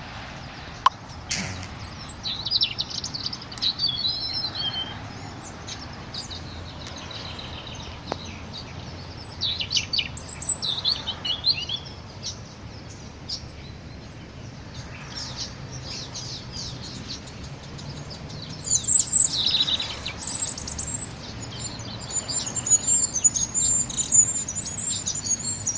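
A group of small nest-building birds chirping and twittering in scattered high bursts, with a busier spell of chatter near the end.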